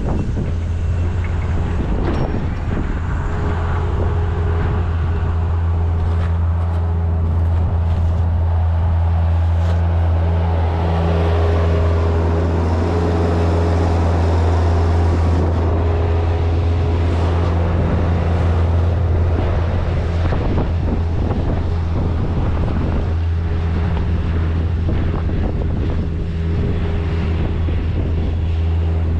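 Vehicle engine running steadily, picked up through the hood it sits under, with scattered short knocks over the steady hum.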